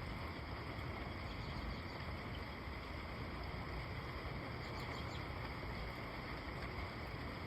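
Steady rain, an even hiss with a low rumble underneath, with a few faint high bird chirps about halfway through.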